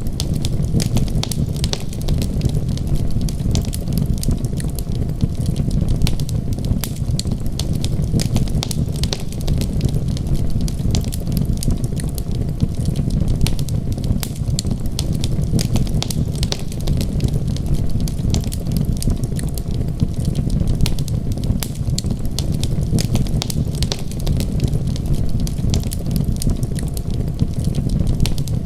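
Wood fire crackling: a dense run of sharp snaps and pops over a steady low rumble.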